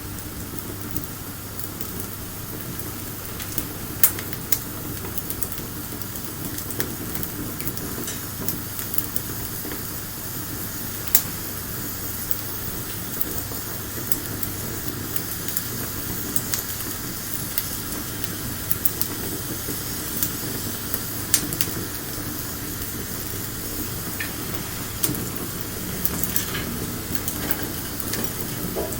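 Bonfire burning with a steady hiss and constant crackling, with two louder pops, about four and eleven seconds in.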